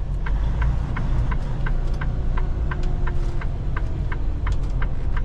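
A semi truck's turn-signal indicator ticking steadily, two to three ticks a second, over the low, steady rumble of the truck's diesel engine heard inside the cab.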